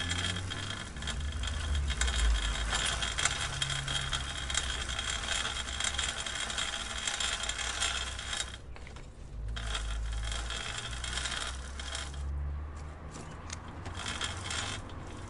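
Bicycle chain clicking in a rapid, dense run over a low rumble. It stops for about a second, eight and a half seconds in, comes back, then thins to scattered clicks near the end.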